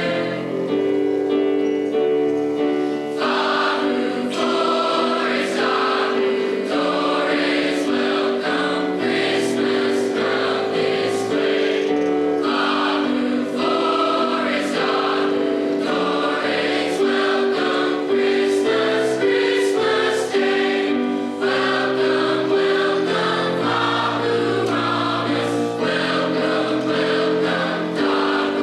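High school choir singing a Christmas song in parts, holding chords that change every second or so.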